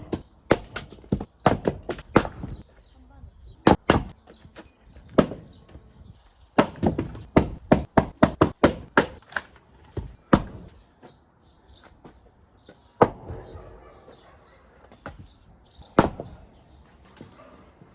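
Axe splitting firewood: a run of sharp wooden knocks, many in quick succession through the first half, then only a few single strikes later on.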